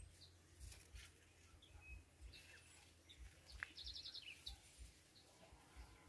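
Faint bird calls in near silence: a few thin, scattered chirps and, a little past halfway, a short rapid trill of about six high notes.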